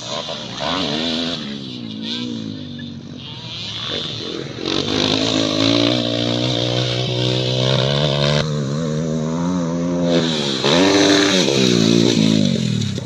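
Motocross bike engine running and revving, its pitch rising and falling again and again, loudest in the last few seconds.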